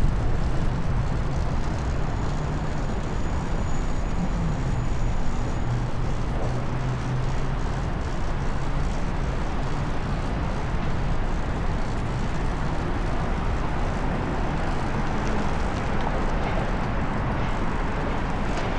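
Steady wind and road rush on a moving bicycle rider's action-camera microphone in city traffic, with a motor vehicle's engine hum passing during the first several seconds.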